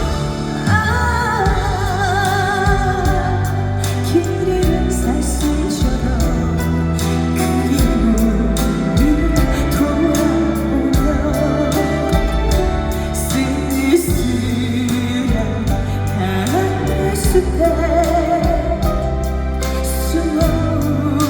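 A female vocalist sings a slow Korean trot ballad with wide vibrato over live band accompaniment and a sustained bass line.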